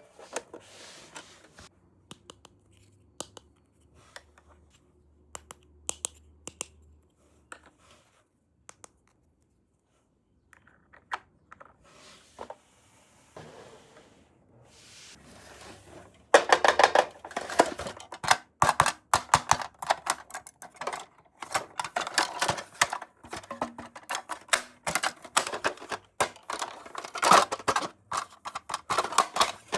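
Small plastic toy pieces and packaging being handled: scattered light clicks and taps, then about halfway through a dense run of rapid clicking and crackling.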